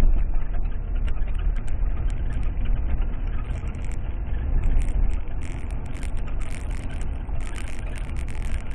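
Car engine and road noise, a steady low rumble, with scattered faint ticks and rattles that come more often from about five seconds in.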